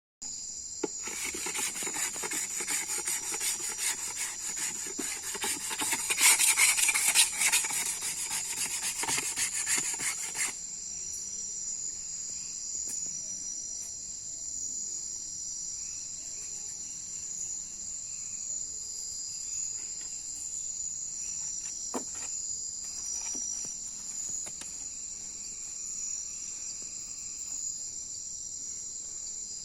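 Wooden friction fire-drill spindle rubbing rapidly against a wooden hearth board. The rubbing runs for about ten seconds, loudest a little past the middle, then stops abruptly. A steady chorus of night crickets runs throughout, with an occasional faint click.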